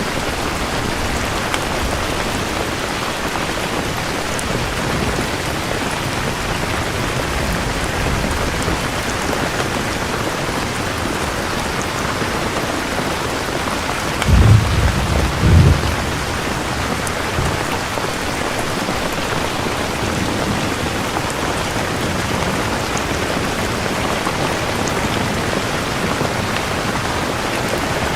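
Steady heavy rain falling on a surface, with a short low roll of thunder about halfway through that comes in two pulses over roughly two seconds.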